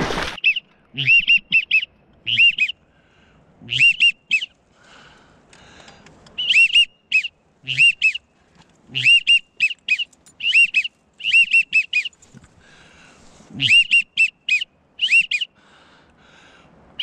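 Duck whistle call blown in quick groups of two to four short, high, arching peeps, repeated again and again with short pauses between the groups.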